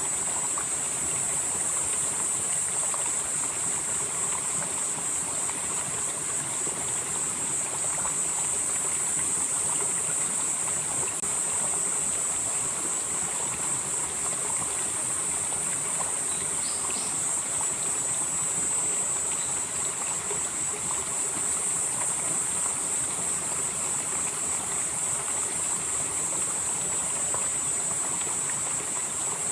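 Valley stream flowing steadily over rocks, with a continuous high-pitched insect chorus above it.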